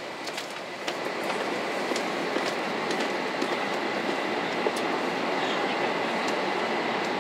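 Cabin noise of a 500 series Shinkansen car on the move: a steady rushing rumble with a faint high steady whine and scattered light clicks and knocks.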